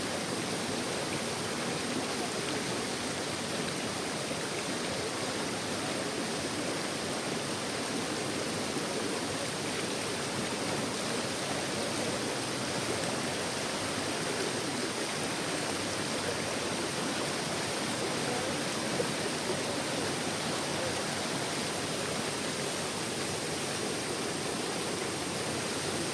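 Waterfall: water falling and splashing over rock in a steady, unbroken rush.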